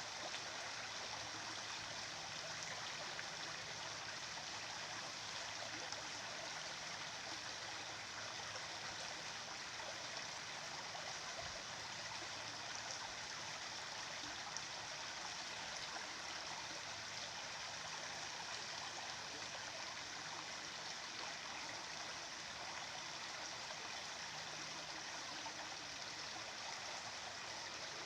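Stream of water flowing, a steady, even rushing sound.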